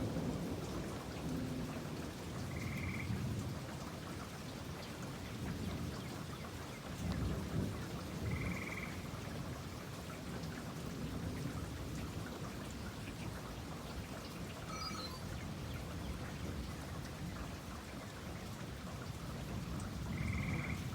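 Steady rain falling, with low thunder rumbling in slow swells, loudest about seven seconds in. A short high chirp sounds three times over it.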